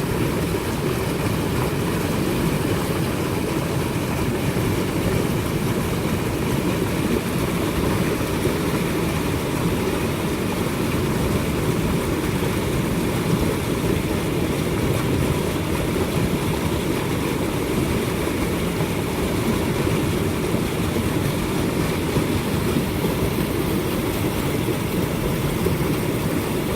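Water boiling steadily: an even, unbroken bubbling noise, deep in tone, that neither rises nor falls.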